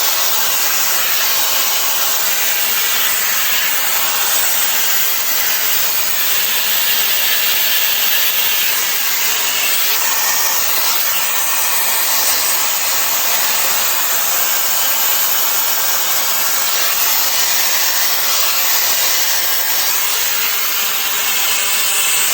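Shark FlexStyle air styler blowing at full speed on its hottest setting: a loud, steady rush of air that cuts off suddenly at the end.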